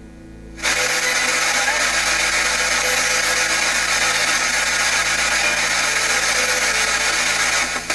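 Spirit box sweeping through radio stations: a loud, even hiss of static that starts abruptly about half a second in and holds steady, with a brief dropout near the end.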